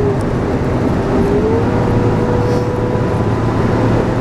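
Engine and road noise of a vehicle being driven, heard from inside the cab: a steady rumble with a hum that dips slightly in pitch near the start and rises back about a second and a half in.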